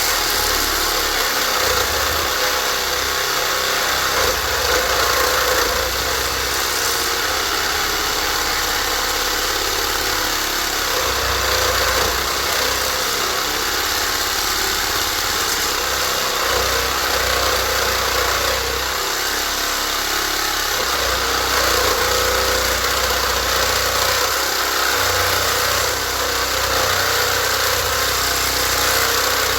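Cordless reciprocating saw with a Diablo blade cutting through the metal casing of a large electric motor, running continuously at full speed, its low rumble swelling and easing every few seconds as the blade bites.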